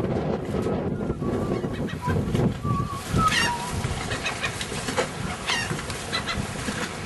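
Birds calling several times in short wavering cries over a steady rush of wind and surf.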